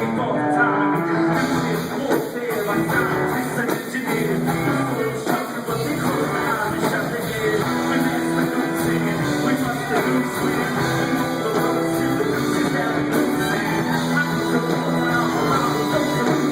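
Live rock band playing an instrumental passage with guitar and no vocals. It is picked up by a phone's microphone, which catches little of the bass.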